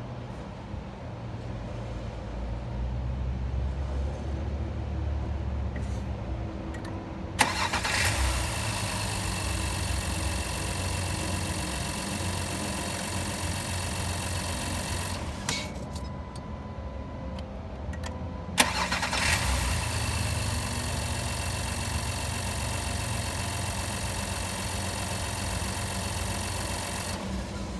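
Car engine heard from the open engine bay: a low rumble at first, then a sharp start about seven seconds in and steady idling. It cuts out about eight seconds later and starts again about three seconds after that, then idles steadily.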